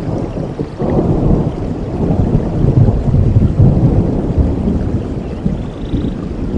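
A long roll of thunder over steady rain. It swells about a second in, rumbles low through the middle and eases off near the end.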